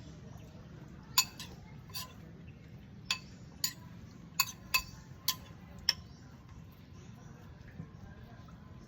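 Cutlery and dishes clinking during a meal: about eight short, sharp clinks over five seconds, then they stop.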